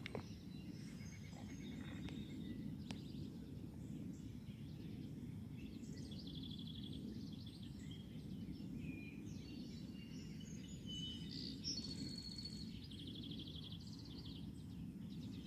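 Songbirds chirping and trilling in short scattered phrases, busiest around the middle and toward the end, over a steady low background rumble.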